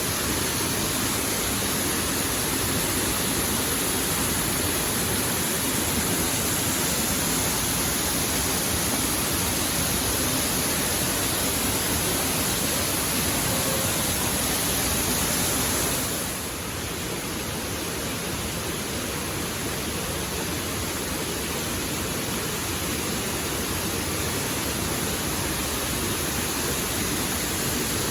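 Waterfall: a steady, even rush of falling water. A little past halfway it drops slightly in level and goes a touch duller, then slowly builds back.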